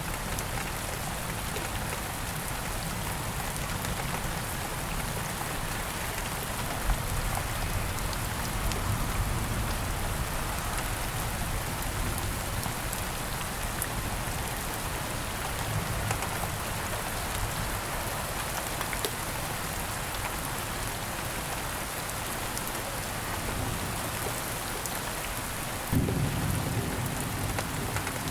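Steady rain falling on foliage and ground, with a low rumble underneath. Near the end the rumble grows louder and deeper.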